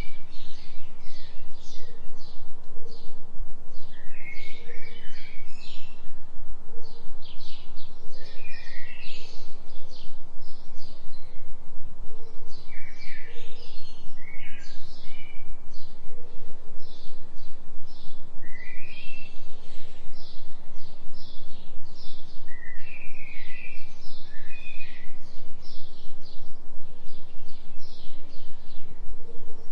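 A forest bird chorus of many short chirps and twitters, with soft low calls now and then, over a steady low binaural-beat tone.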